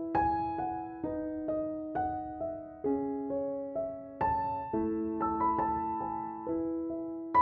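Background music: a gentle piano melody of single struck notes, each ringing and fading before the next.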